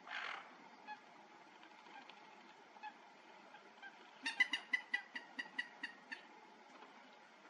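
A bird calling: a run of about a dozen evenly spaced calls, about five a second, beginning about four seconds in, loudest at first and then fading. A short hiss right at the start.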